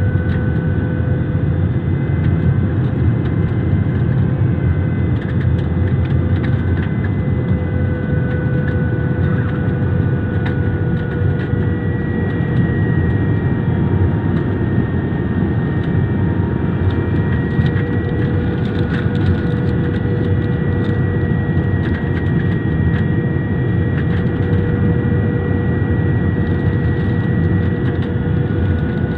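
Jet airliner during its landing approach: steady engine and airflow noise with a few faint whining engine tones that drift slightly in pitch, heard as steady cabin noise.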